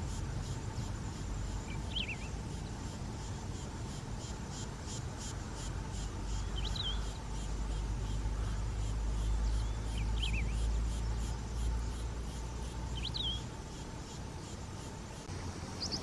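Wedge-tailed grass-finch (canário-do-campo) singing: a short, high chirped phrase given four times, a few seconds apart, over a steady background of insects chirring and a low rumble.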